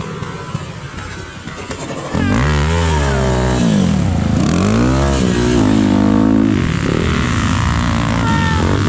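Off-road motorcycle engine, quieter and rough at first, then loud from about two seconds in, revving repeatedly with its pitch rising and falling.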